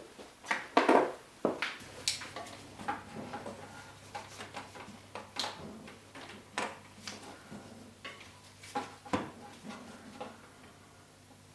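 Scattered clicks, knocks and light clatter of intercooler parts and hose fittings being handled and pushed into place in a car's engine bay, the loudest knocks about a second in. A faint low hum runs underneath.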